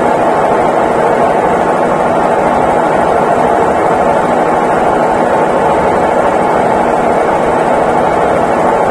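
Consul Facilite 11 kg (CWG11) washing machine running with a loud, steady whir.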